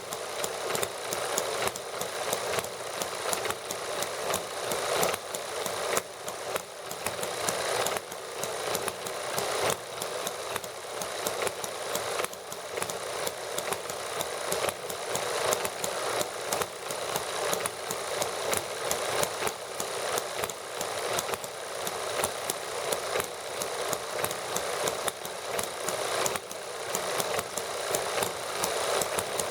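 Small model gasoline engines running steadily: a fast, even patter of firing strokes with no pauses.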